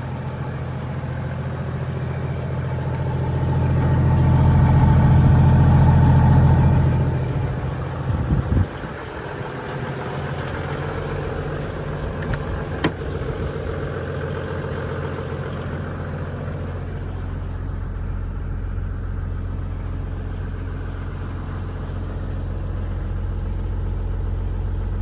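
Toyota Land Cruiser HDJ81's 1HD-T turbo-diesel straight-six idling steadily, louder for a few seconds about 3 to 7 s in. A couple of knocks come about 8 s in, and a sharp click around 13 s.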